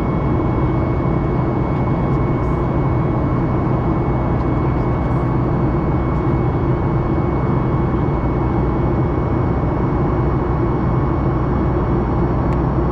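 Steady cabin noise of a Boeing 737 MAX 8 in flight: the CFM LEAP-1B engines and rushing air as an even, unchanging noise with a thin high tone held above it.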